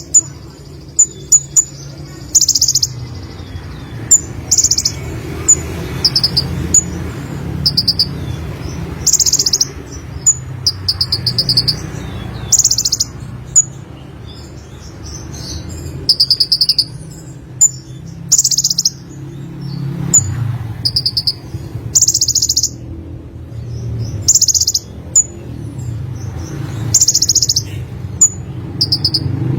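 Sunbird (kolibri konin) singing: a string of short, high-pitched, rapid trills and chirps, one every second or two, over a steady low hum.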